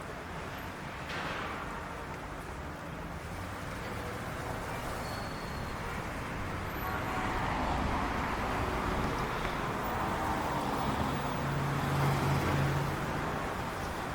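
Road traffic ambience: a steady wash of passing cars that grows a little louder past the middle, with a low engine hum near the end.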